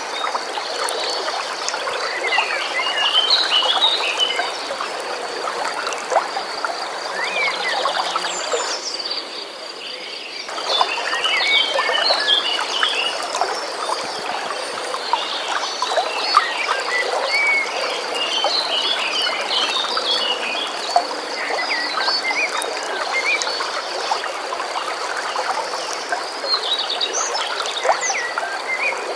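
A flowing stream with small birds chirping. Over it runs a steady high, pulsing trill. The sound thins briefly about nine seconds in.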